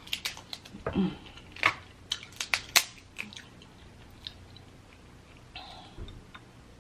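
Eating snow crab legs: sharp cracks and snaps of the shells and close-up chewing, in quick succession for about three seconds, then only a few scattered clicks.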